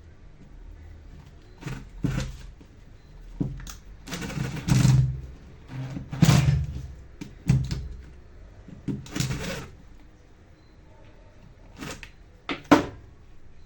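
An irregular series of knocks, clicks and short scrapes from hard parts and tools being handled. The longest lasts about a second, around four seconds in, and the sharpest knock comes near the end.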